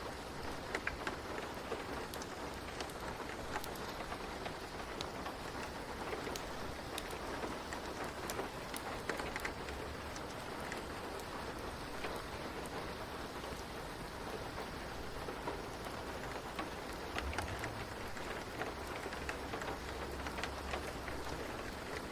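Steady rain falling, with individual drops ticking on a surface through an even hiss and a faint low rumble underneath.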